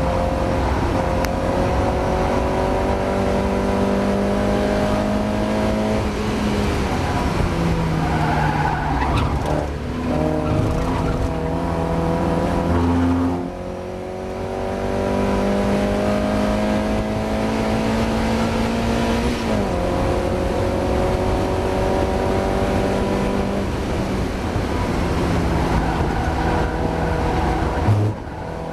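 Mazda MX-5's four-cylinder engine heard from inside the car under hard acceleration on track. Its pitch climbs steadily and drops back at each gear change, about every four to six seconds, with a short lift off the throttle near the middle. The car is racing with a misfire.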